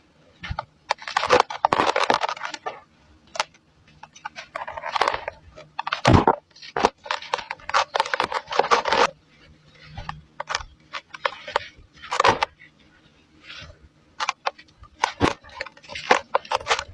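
Lumps of dry cement being crumbled, crunching and crackling in irregular bursts with short pauses between.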